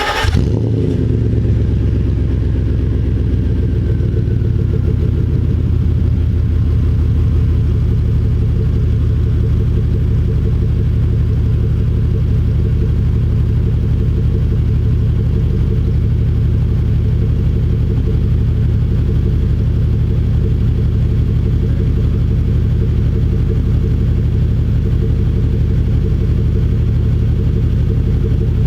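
Mercedes-Benz W126's V8 idling steadily just after a cold start, heard through an exhaust with a Magnaflow high-flow catalytic converter, resonator delete and Magnaflow muffler: an even, low exhaust rumble.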